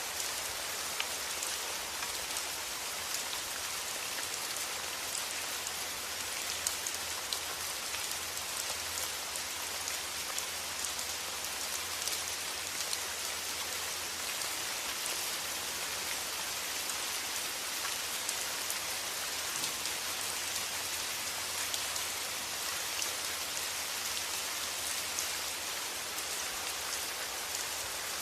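Steady rain falling on a surface, a dense even hiss with many small scattered drop ticks, and a faint low hum underneath.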